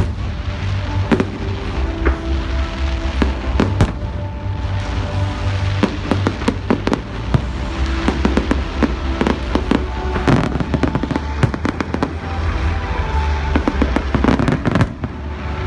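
Fireworks going off: a constant run of bangs and crackles, many in quick succession, over loud music with heavy bass.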